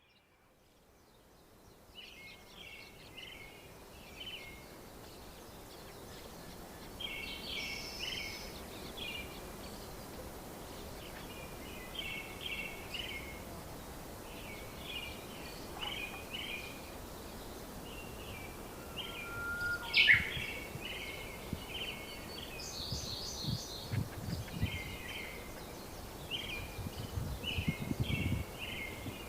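Small birds chirping in short repeated bursts of quick high notes over steady outdoor background noise, with a few low thumps near the end.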